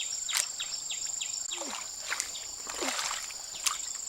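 Outdoor wild ambience: a steady high-pitched insect drone with a bird's short falling chirps repeated several times a second. A few clicks and small water plops sound through it.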